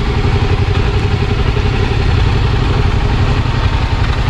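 Motorcycle engine idling steadily with a low, even rumble.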